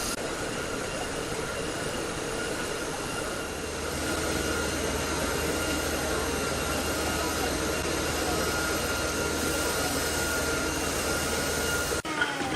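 Woodworking machinery running steadily, a dense noise with a few held tones, which cuts off sharply near the end.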